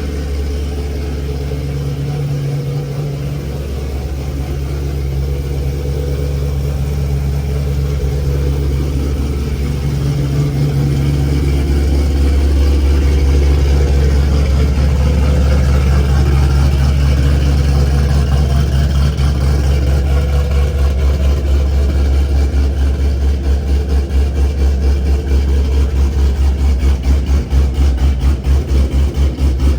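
Supercharged 7.0-litre LS7 V8 of a Camaro Z/28 running, a steady deep exhaust note that gets louder partway through and takes on a strong, even pulsing in its second half.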